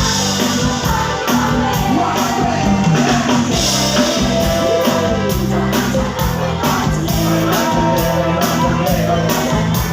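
Live Thai ramwong band playing dance music with a singer over a steady percussion beat.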